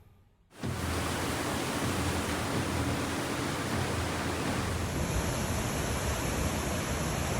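Steady rushing noise of water, cutting in suddenly about half a second in after a brief silence and holding even, with a thin hiss added in the upper range about five seconds in.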